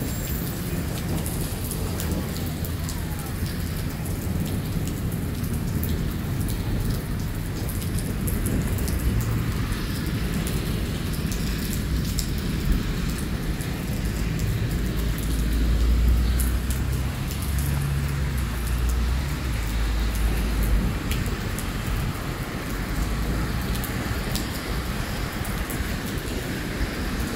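Heavy rain pouring steadily onto wet pavement. Partway through, a long low rumble swells and fades.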